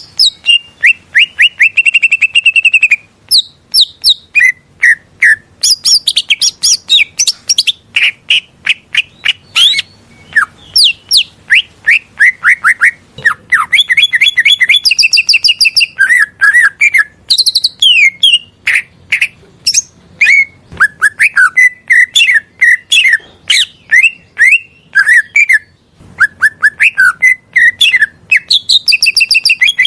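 Green leafbird (cucak ijo) singing a long, rapid, varied song of sharp chirps, slurred whistles and short trills, note after note with only a brief pause about 26 seconds in.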